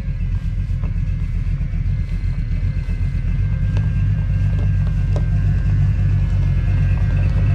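A motor vehicle running on the road: a steady low engine and road rumble that grows slightly louder about halfway through.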